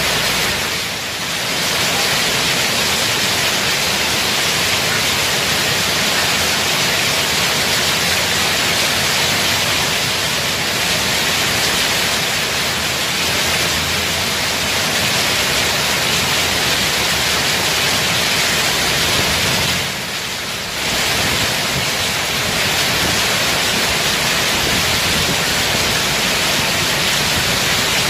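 Heavy rain pouring down in a dense, steady hiss, dipping briefly about a second in and again about twenty seconds in.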